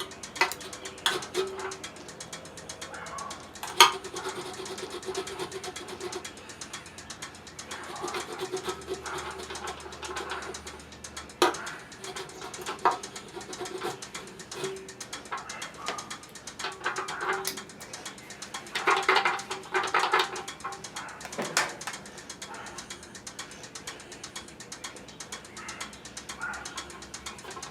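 Scattered clicks, knocks and clatter of pressure-washer parts and tools being handled by hand, with a denser run of clatter about two thirds of the way in. Doves coo in the background.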